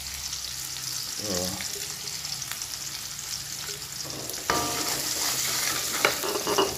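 Shallots, garlic and chilli sizzling in hot oil in a wok while being stirred with a coconut-shell ladle. About halfway through, the ladle knocks against the wok with a short metallic ring, and there are a few lighter clicks near the end.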